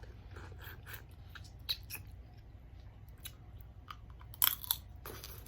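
Close-up eating sounds of boiled seafood: chewing, smacking and small wet clicks, with a louder cluster of sharp clicks about four and a half seconds in.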